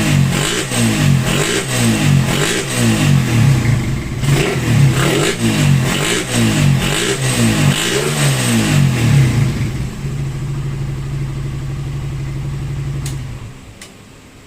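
Suzuki Raider 150 single-cylinder four-stroke engine being revved in a series of quick throttle blips, then settling into a steady idle and shutting off near the end. It is being test-run after a new intake manifold O-ring and a carburetor cleaning, and it runs without backfiring.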